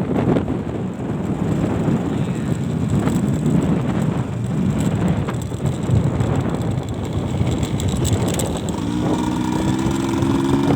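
Strong wind buffeting the microphone in a sandstorm, a steady low rushing. Near the end a vehicle's engine hum comes in, rising slightly in pitch.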